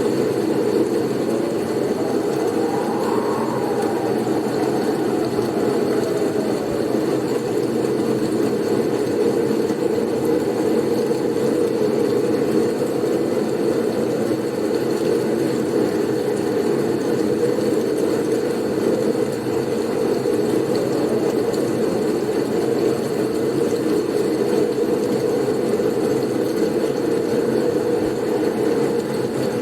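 Blizzard wind, a steady low rushing noise, with a faint whistling gust that rises and falls a few seconds in.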